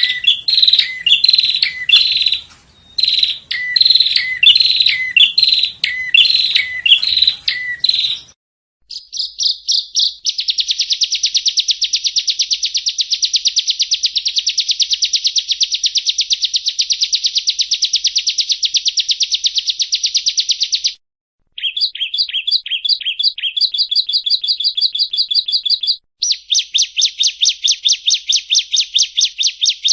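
Yellow-bellied prinia (prenjak rowo) singing: about eight seconds of quick repeated chirping phrases, then long, very fast rattling trills that break off briefly twice.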